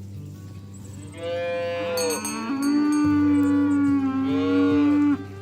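A cow mooing: one long moo that starts about a second in, rises from a higher opening into a lower, drawn-out note, and cuts off near the end.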